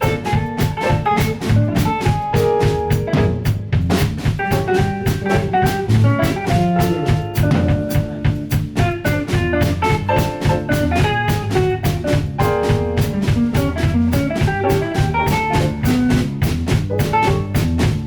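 Instrumental jazz-pop band music: a drum kit keeps a steady, busy beat under guitar and other pitched instruments playing a melody and chords.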